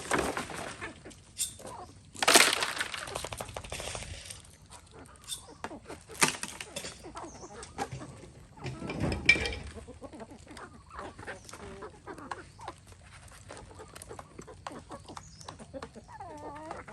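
Chickens clucking, broken by a few loud snapping, crackling noises, the loudest about two, six and nine seconds in.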